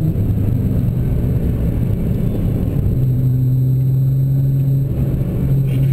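Nissan GT-R's twin-turbo V6 heard from inside the cabin as the car slows, a steady low drone over road rumble. The engine note steps up about halfway through and dips briefly near the end.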